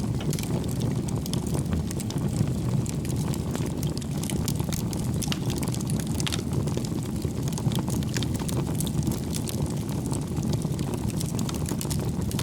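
Wood fire burning: a steady low rush of flames with frequent small crackles and pops from the burning logs.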